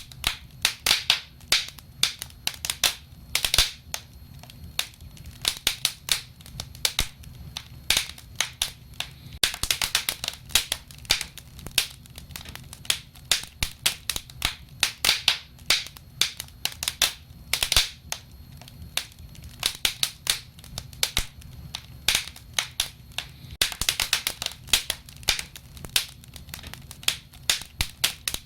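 Wood fire crackling, with frequent sharp pops and snaps over a faint low rumble.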